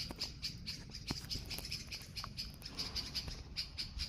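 Small songbirds, which the uploader calls yellow-tailed nightingales, giving short high calls over and over at about four a second. This is agitated calling at a cat that they are nervously circling.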